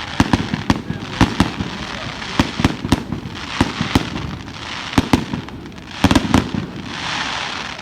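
Fireworks going off: a rapid, irregular series of sharp bangs and pops over continuous crackling, with a louder hissing crackle swelling near the end.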